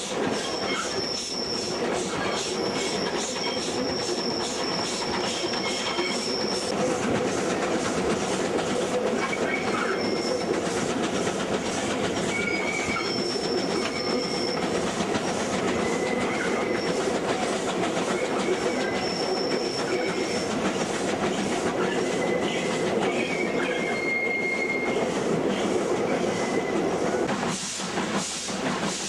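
Steady running rumble of a steam-hauled passenger train's carriages on the rails, with wheel flanges squealing in high, thin tones that come and go several times.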